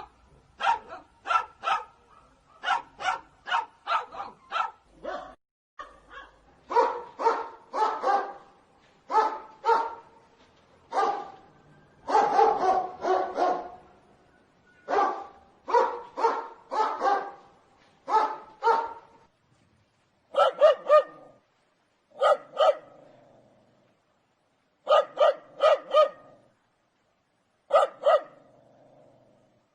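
Dogs barking in quick bursts of two to five barks with short pauses between them. The barking is dense and overlapping in the first half and more spaced out with clear gaps in the second half.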